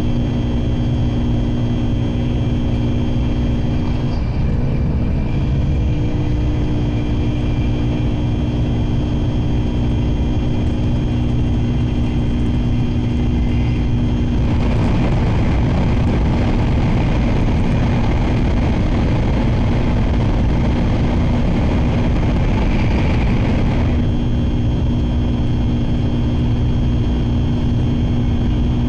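Shinkansen bullet train running at speed, heard inside the passenger car: a steady low rumble with a few steady tones. Midway a louder rushing noise comes in for about ten seconds, then drops back.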